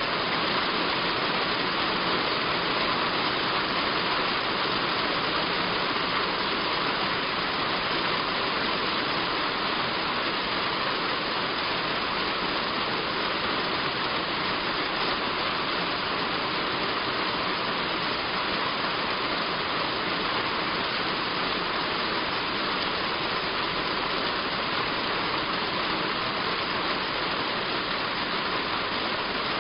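Heavy rain falling steadily on a roof, an even hiss with no let-up.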